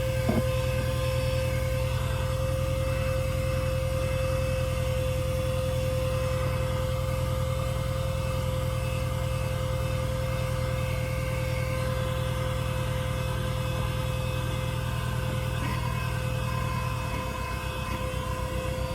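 A motor running steadily, with a low pulsing rumble and a constant mid-pitched hum; the rumble changes slightly near the end.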